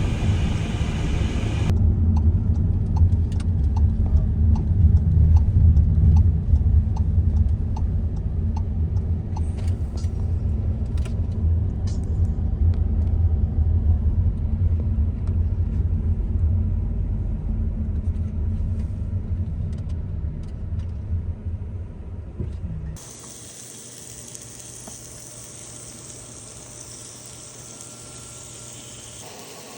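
A loud, steady low rumble with scattered faint ticks, which stops abruptly about 23 seconds in and gives way to a much quieter steady hiss.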